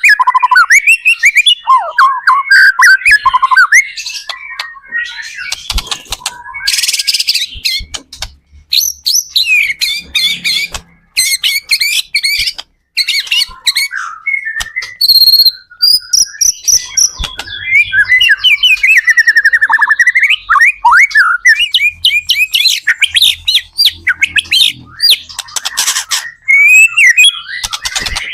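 White-rumped shama singing loudly and continuously: a rapid, varied run of whistles, trills and harsh rattling phrases, with brief pauses between bursts.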